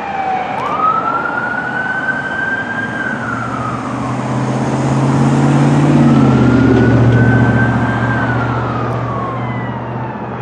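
Fire apparatus siren in a slow wail, climbing and falling twice, over the low drone of a heavy truck engine that swells to its loudest about two-thirds of the way through as the apparatus goes by.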